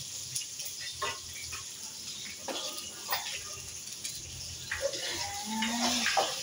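Chicken sautéing in a frying pan on a gas burner: a steady hiss with scattered clicks and knocks from a spatula against the pan. A brief voice-like sound comes near the end.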